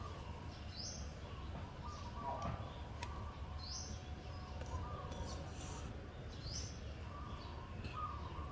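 A bird repeating a short, high, rising chirp three times, about three seconds apart, over a steady low background rumble.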